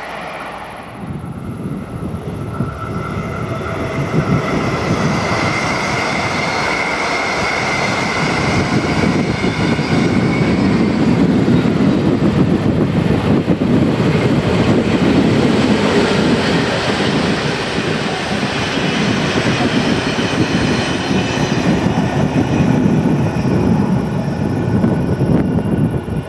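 A train passing close by on the track, its running noise building over the first few seconds and then staying loud and steady.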